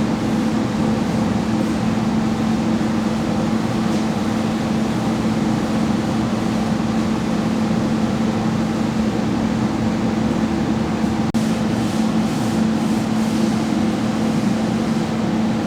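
Steady drone of a water truck's engine, heard from inside the cab, with a constant low hum.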